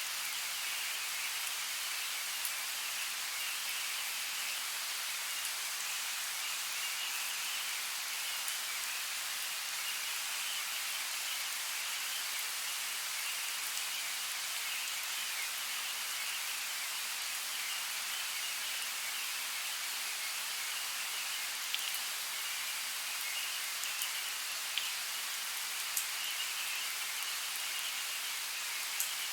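Steady rainfall hissing, with a few sharper drop ticks in the second half.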